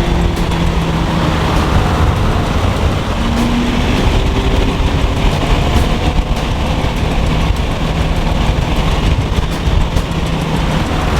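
Car engine pulling at high, steady revs, with heavy road and wind noise, heard from inside a car at speed during a street race.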